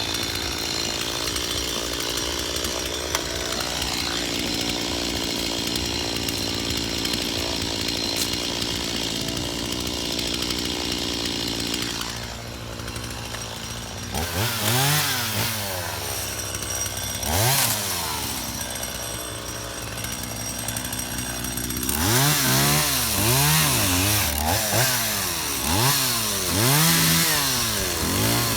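Stihl two-stroke chainsaw running steadily at speed for about twelve seconds, then dropping to idle. It is blipped up twice, then revved up and down in quick repeated bursts near the end.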